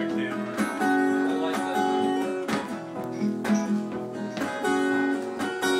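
Acoustic guitar strummed, a series of chords each left to ring.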